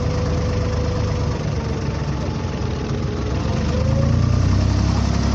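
Boat engine running steadily during a creek crossing; the low drone grows louder about four seconds in.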